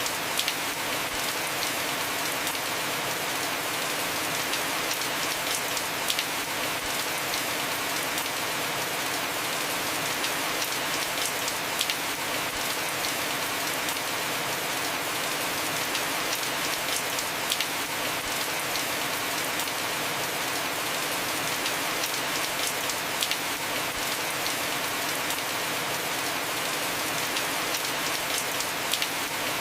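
Heavy rain falling on a roof, a steady dense hiss with a few sharper drop ticks now and then.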